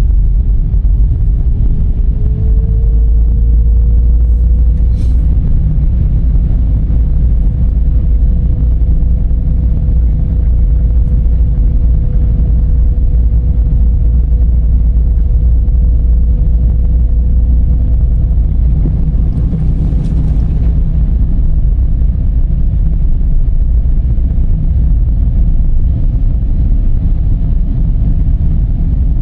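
Dodge Charger driving: a loud steady low rumble of road and engine noise. A faint hum rises slightly in pitch a few seconds in and then holds, and there is a brief hiss about twenty seconds in.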